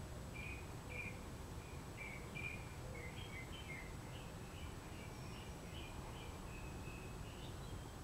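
A bird chirping over and over in short notes, about two a second, over a steady low background rumble.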